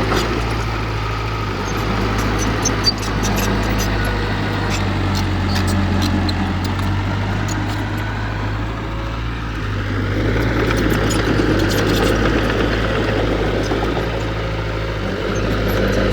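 Heavy diesel engine of earthmoving equipment running steadily, with a single brief knock about three seconds in.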